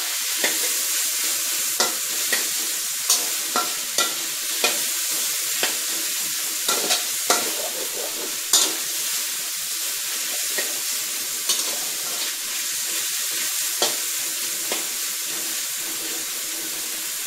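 Diced pork belly sizzling in hot oil in a wok while a metal spatula stirs it, scraping and clacking against the pan every second or so. The pork belly is being fried to render out its fat.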